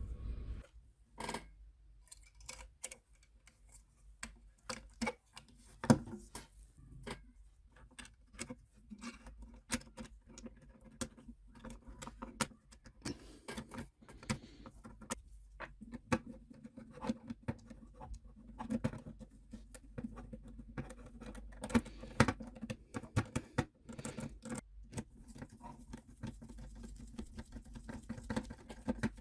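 Irregular light clicks, taps and small rattles, as of hand work with tools and small metal parts, over a faint steady low hum.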